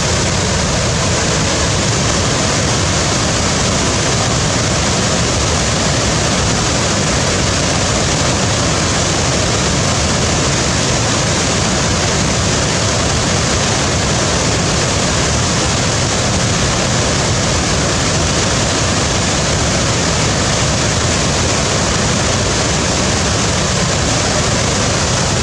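A waterfall's steady roar of falling water, loud and unchanging, with no other events.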